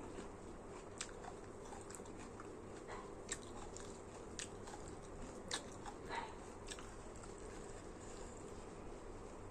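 A person chewing and biting food close to the microphone, with sharp wet clicks and crunches every second or so through the first seven seconds over steady background noise.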